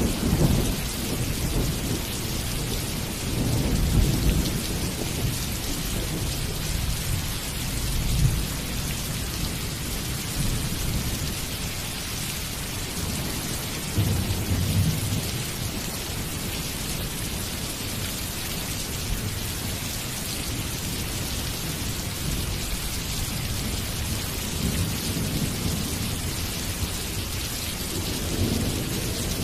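Steady rain hissing, with thunder rumbling low several times: a swell at the start, again about four, eight and fifteen seconds in, and a longer roll near the end.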